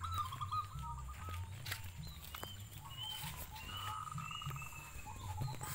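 Birds calling: a series of short whistled notes and a brief trill, over a low rumble.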